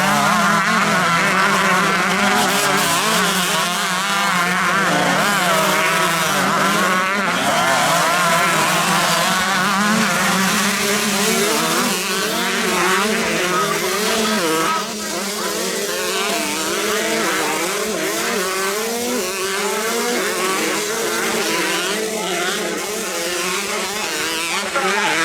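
Several two-stroke 125cc motocross bikes racing together. Their engines rev up and down constantly in overlapping, wavering pitches as the riders accelerate and shift.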